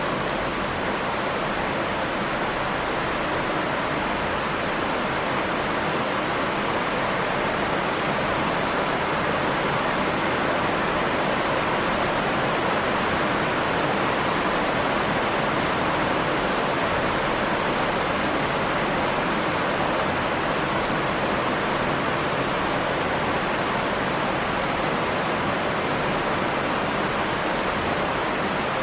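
Steady rain: a dense, even hiss of falling water, unchanging throughout.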